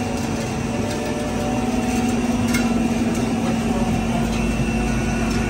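Vintage Ford Mustang's engine idling steadily, with a deeper low rumble coming in a little past halfway.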